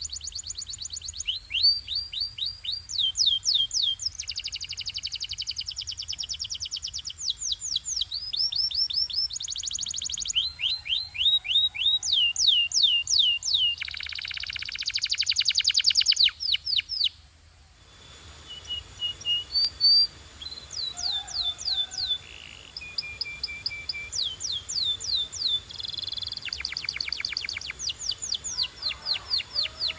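Canary singing a long song of rapid trills: each phrase is a quick run of repeated downward-sweeping whistled notes, switching to a new phrase every second or two, with a short break about two-thirds of the way through.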